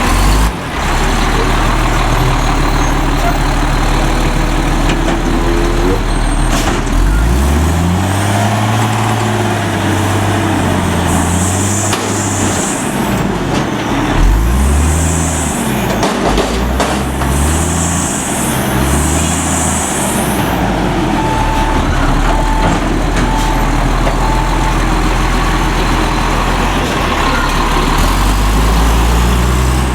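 Autocar front-load garbage truck's diesel engine running, revved up and down four times in succession with short hissing bursts alongside. Then a beeping alarm sounds about once a second for a few seconds before the engine settles back to a steady run.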